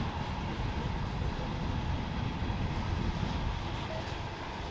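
Freight train rolling past: a steady rumble of wheels on rail with faint clicking, easing off slightly near the end.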